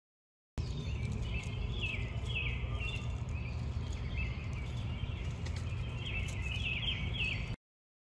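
Outdoor ambience of a low steady rumble with small birds chirping repeatedly: short high chirps, each falling in pitch. It cuts in about half a second in and stops abruptly near the end.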